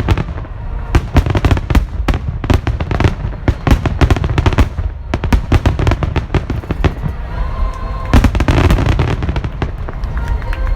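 Fireworks display: a rapid, unbroken volley of sharp bangs and crackling shell bursts over a deep rumble, with a few especially heavy bursts about eight seconds in.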